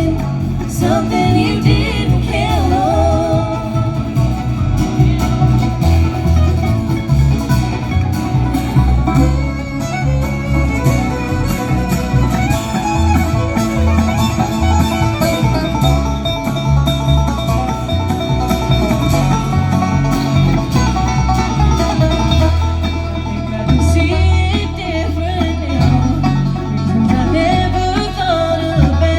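Bluegrass band playing live, banjo, acoustic guitar and fiddle together in an instrumental break of the song, with a steady bass line underneath.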